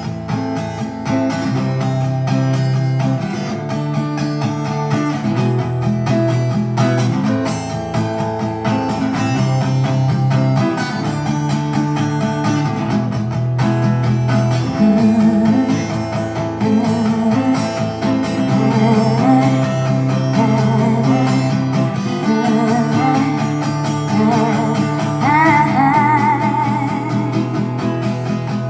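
Live guitar music with a bass line stepping between long held notes: an instrumental passage of a song. A short wavering high note sounds near the end.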